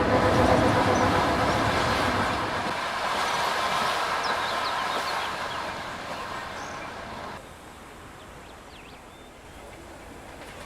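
A train running past close by, a loud steady rumble with a faint steady hum and a few brief high squeaks, slowly fading, then dropping off sharply to a much quieter background about seven seconds in.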